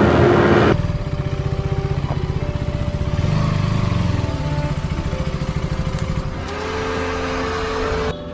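KTM Duke motorcycle engine running at low revs with a steady pulsing beat, after a brief rush of wind noise at the start. The sound cuts off suddenly near the end.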